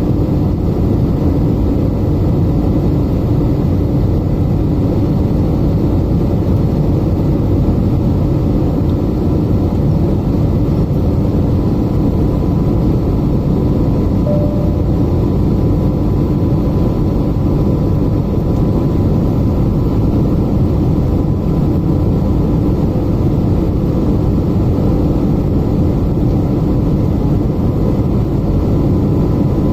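Steady engine and airflow noise in the cabin of an Airbus A320neo in flight: an even, low drone with a faint steady tone above it.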